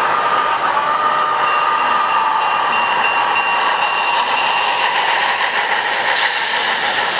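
Model train running on a layout: a steady rolling noise with a faint high whine running through it.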